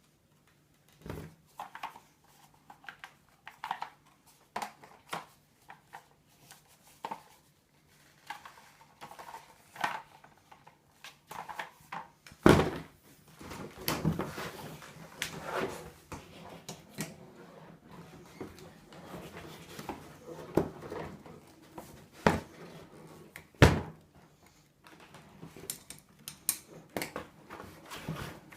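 Irregular handling sounds of a vacuum cleaner's plastic parts and packaging being unpacked: clicks, thunks and rustling. Three sharp knocks stand out, about twelve seconds in and twice more near the end.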